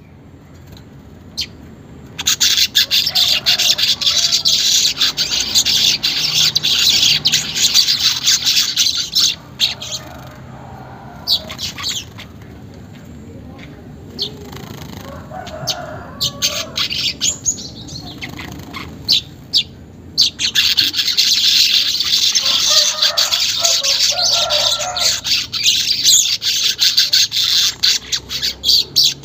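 Manyar weaver bird giving its rapid, high chattering song. It comes in two long loud stretches: one from about two seconds in to about nine seconds, and another from about twenty seconds in that continues on. Between them are sparser chirps and squeaks.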